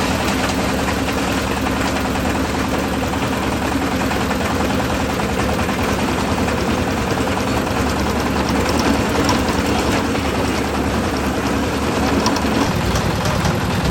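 Concrete mixer's engine running steadily.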